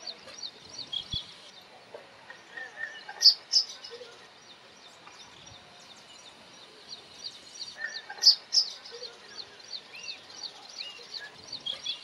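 Small birds chirping in a rapid, continuous series of high notes, with lower calls mixed in. Two louder, sharp calls stand out, about three seconds in and again about eight seconds in.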